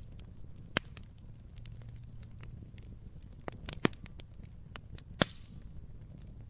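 Wood fire crackling: a low, steady rumble with irregular sharp pops and snaps, the loudest about a second in, near four seconds and just past five seconds.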